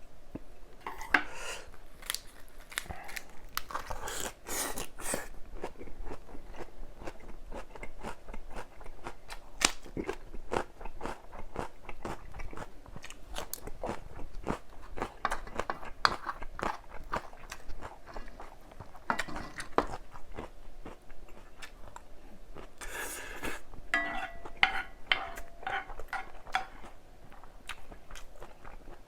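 Close-up chewing and crunching of crisp vegetables: the host is eating lettuce-wrapped bulgogi and cucumber kimchi. The crunches are dense and irregular, with wet mouth clicks.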